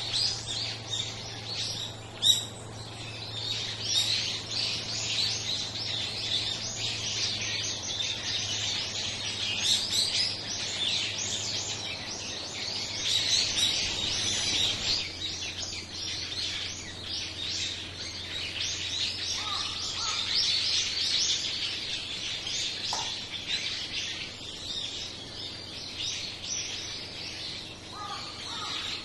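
A flock of small songbirds chirping continuously, many short high calls overlapping into a dense chatter. There is a single sharp click about two seconds in.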